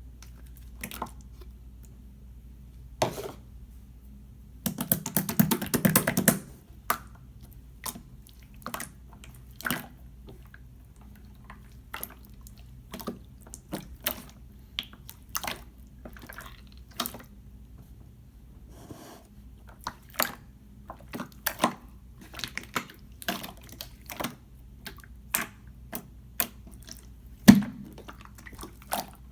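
Clear slime worked by hand, giving wet clicks and pops at irregular intervals, with a longer run of squishing about five seconds in.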